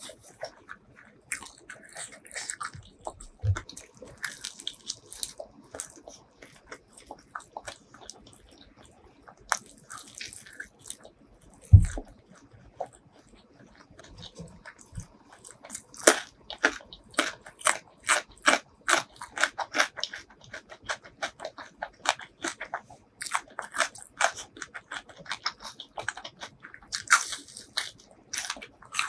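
Close-miked eating: chewing and biting into crispy fried chicken, with one low thump just before the middle. From about halfway on the crunching becomes dense and crisp, a few bites a second.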